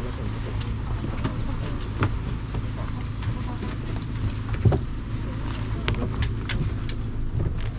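A boat's engine running with a steady low hum, with scattered sharp knocks throughout.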